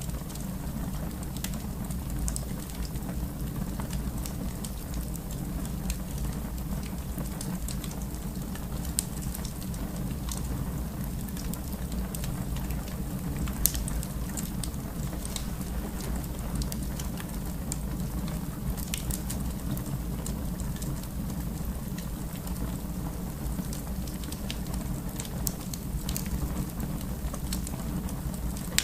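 Fire in a fireplace crackling steadily, with scattered sharp pops over a steady low rumble; a few pops stand out louder.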